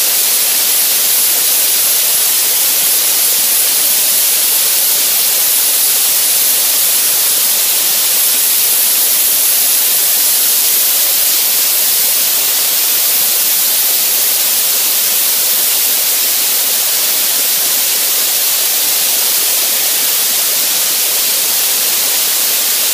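Media-blasting nozzle hissing steadily as it strips bottom paint from a steel boat hull, with a thin high whistle running above the hiss.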